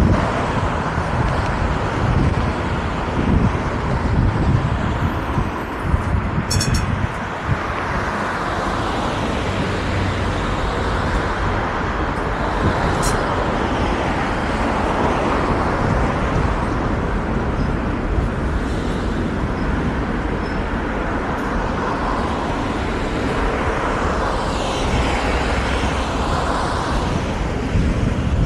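Vario LF2R.E low-floor tram running along the track: steady rolling and traction noise with wind. There are two short sharp clicks, one about a quarter of the way in and one about halfway. Near the end a whine rises and falls in pitch.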